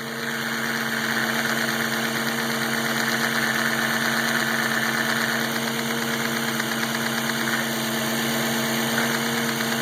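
Audi S4 B6's 4.2-litre V8 idling steadily with an intermittent ticking from the intake manifold flapper, which the owner takes for the source of the noise. The ticking changes as the flapper linkage is moved by hand and eases about halfway through.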